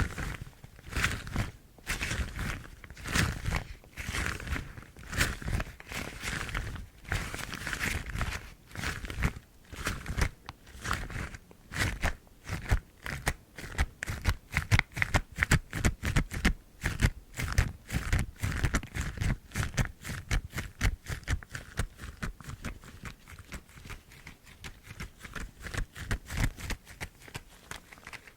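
Yellow rubber household gloves rubbed and scratched together close to the microphone: a run of short squeaky rustles and scrapes, irregular at first, then quicker and more even about halfway through.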